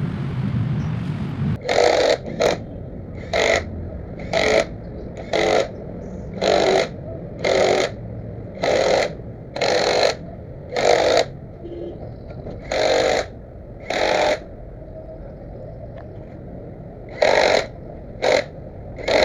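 Hand hacksaw cutting a steel bolt: rasping strokes about once a second, each about half a second long, with a short pause about two-thirds of the way through and a longer one near the end. A low rumble runs under the first second or so.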